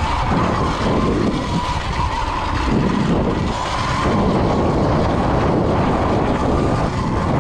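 Sur-Ron electric dirt bike riding along a trail, its motor giving a high whine that wavers a little with the throttle, over a steady rush of wind and tyre noise.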